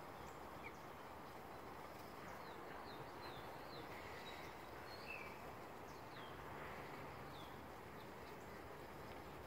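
Faint, scattered short high chirps from birds, several of them falling in pitch, over a steady quiet outdoor hiss.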